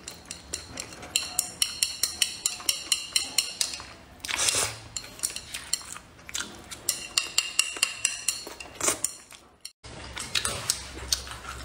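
Close-miked eating of braised pork belly: two runs of quick wet chewing clicks, about five a second, with a short breathy rush between them, and chopsticks clinking against a ceramic bowl.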